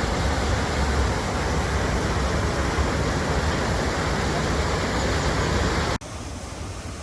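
Waterfall rushing: a loud, steady rush of falling water. About six seconds in it cuts off abruptly to a quieter, steady rush.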